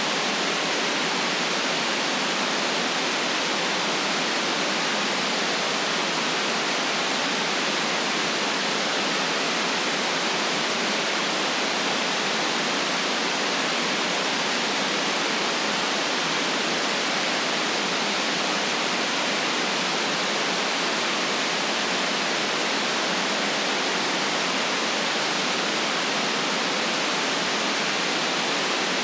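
Steady white noise: an even, unchanging hiss, strongest in the treble, with no deep bass and nothing above the highest treble.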